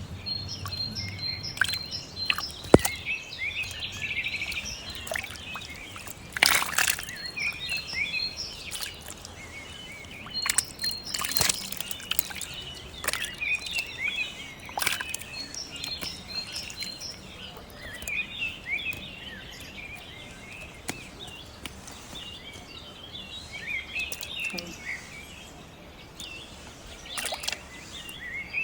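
Small birds chirping and twittering outdoors, with many short repeated calls throughout. A few sharp, louder sounds, knocks or splashes, cut in now and then, the longest about six and a half seconds in.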